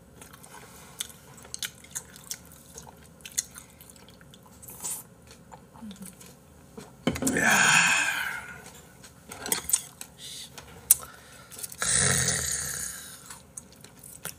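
Chewing and mouth-smacking close to the microphone, with faint clicks throughout. Two loud, drawn-out burps come about seven and twelve seconds in, after a drink from a can.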